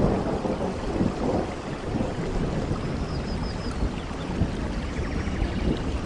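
Steady rain with a low, rolling thunder rumble running underneath. A faint run of short high chirps comes about three seconds in.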